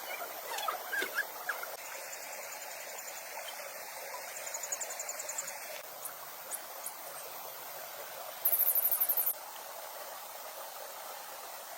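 A steady watery hiss of outdoor ambience, with a short, rapid, high-pitched insect trill about two-thirds of the way in.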